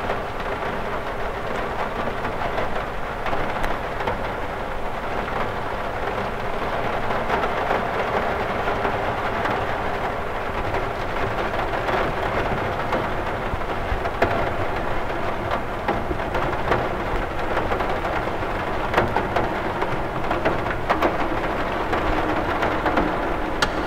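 Steady rain falling on a window, an even hiss with scattered drops ticking on the glass.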